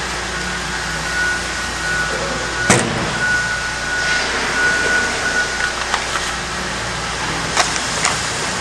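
Steady mechanical running noise with a thin high whine that comes and goes over the first half, and a sharp knock nearly three seconds in, followed later by a few lighter clicks.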